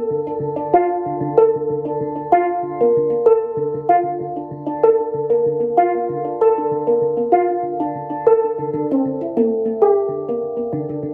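Handpan being played by hand: a flowing melody of struck steel notes that each ring on, with an accent about every second over a low, sustained bass note.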